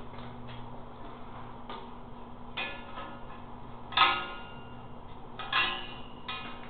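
Hard objects knocking together four times with short, ringing clinks, the second the loudest, over a faint steady low hum.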